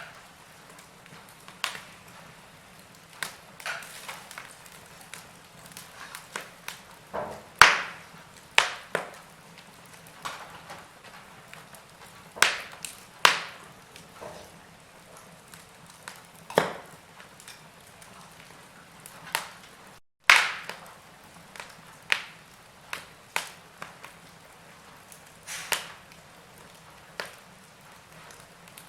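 Wood fire crackling: burning logs give irregular sharp pops and snaps, some loud and some faint, over a faint steady background. The sound drops out for a split second about twenty seconds in.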